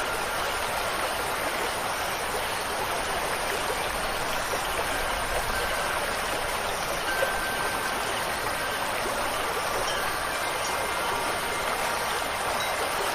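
Steady rush of running water, with faint wind chime tones ringing now and then.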